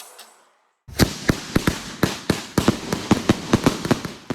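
A string of firecrackers popping: a rapid, irregular run of sharp cracks, several a second. It starts about a second in and stops abruptly near the end.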